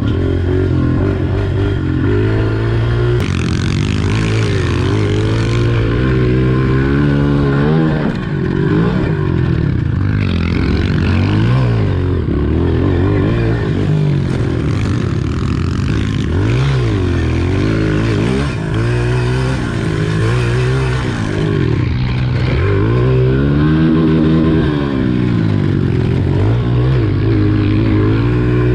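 Pit bike engine revving up and down as it is ridden around a dirt track. The pitch rises and falls over and over, every couple of seconds, as the throttle is opened and closed.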